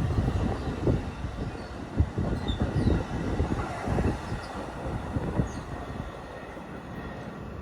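A train rolling past, its wheels knocking irregularly over the rails, growing fainter as it moves away.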